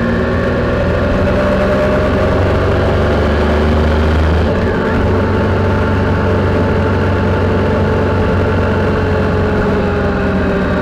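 Triumph Sprint motorcycle's three-cylinder engine running steadily under way, with wind noise over the on-bike camera behind the windscreen. The engine note eases slowly lower through the second half.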